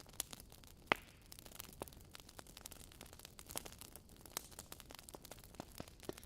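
Wood fire crackling in a fireplace: irregular small pops and snaps from the burning logs, with one sharper pop about a second in.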